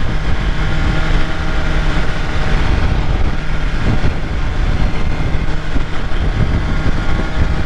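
BMW S1000RR inline-four sport bike engine running at road speed, steady and loud, mixed with wind rushing over the microphone.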